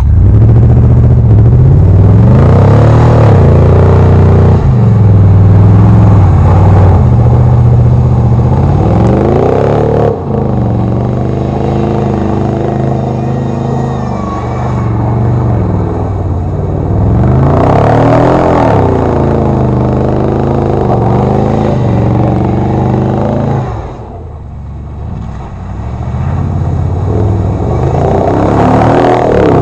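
A vehicle's engine revving hard in repeated surges as it is driven through deep mud in two-wheel drive, the pitch climbing and falling again four times, with a brief drop in revs a little after the middle.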